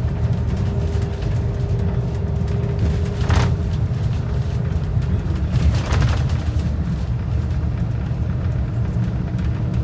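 Transit bus in motion: a steady low rumble of engine and road, with a droning whine that drops to a lower pitch about five seconds in. Two short rushing swells come through, one after about three seconds and one around six seconds.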